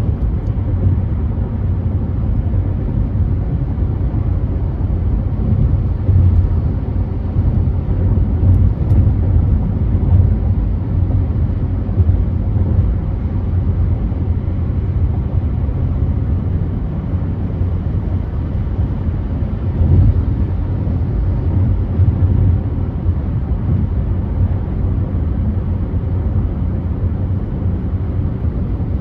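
Car driving at freeway speed: a steady low rumble of tyre and road noise with engine hum.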